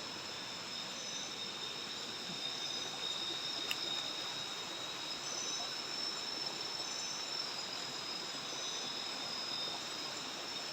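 Night insect chorus in tropical forest: a steady high-pitched trilling at two pitches, with a shorter, higher chirp repeating about every second and a half. A single sharp click comes a little under four seconds in.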